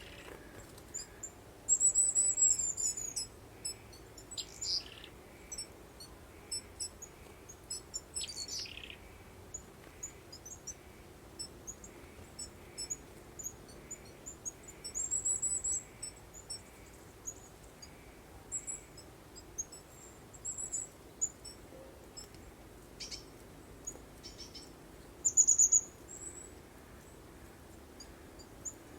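Birds singing: many short high chirps and calls, with three louder high trilled phrases, about two seconds in, midway and near the end, over a faint steady hiss.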